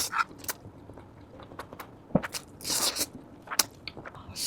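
Close-miked eating sounds of a person eating sesame-sauce Buldak fire noodles: short wet mouth clicks and a few brief hissing slurps.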